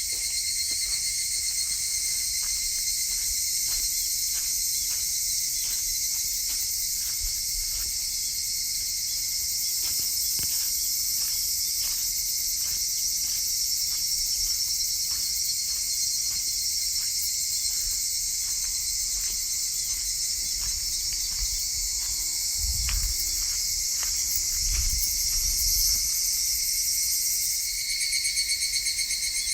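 A steady, high-pitched chorus of insects, with faint regular ticks about twice a second underneath.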